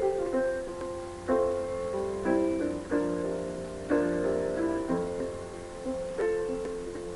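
Solo piano playing a slow song introduction: chords and broken chords struck about once a second, each ringing and fading before the next.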